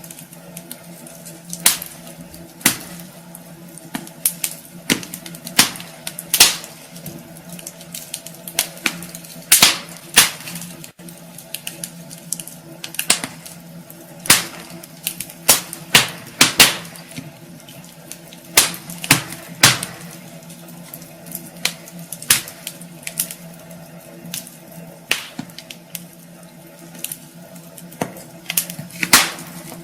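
Wood fire burning in a fireplace, crackling with irregular sharp pops of varying strength over a steady hiss and a low hum.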